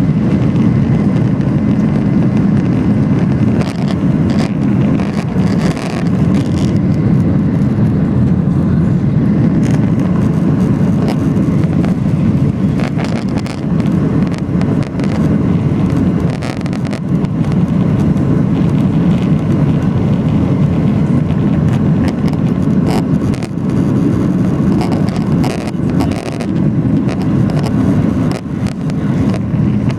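Steady loud rumble of engines and airflow inside the cabin of a Boeing 737-800 with CFM56-7B engines, with scattered short rattles.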